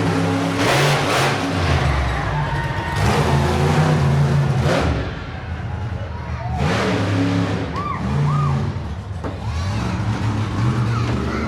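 Monster truck engine running loud and revving in repeated surges, with a steady low engine drone between the bursts.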